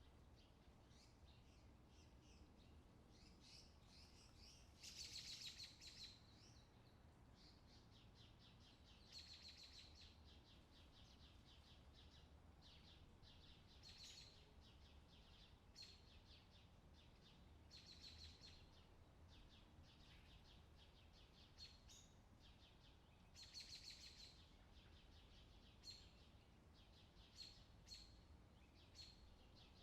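Forest birds singing, faint: trilled song phrases come every few seconds, with short chirps between them, over a low steady hum.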